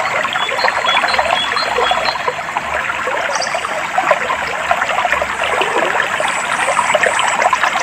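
Clear water flowing and trickling steadily, with a few faint, short, high bird chirps in the first few seconds.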